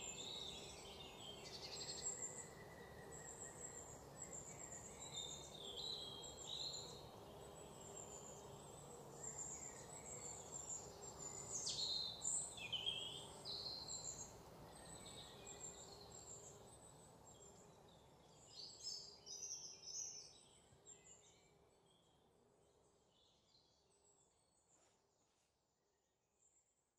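Birds chirping and twittering, many short calls, some sweeping down in pitch, over a faint steady hiss. The sound fades away over the last several seconds.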